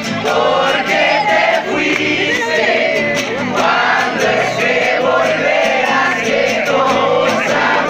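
A group of people singing together in chorus, many voices at once.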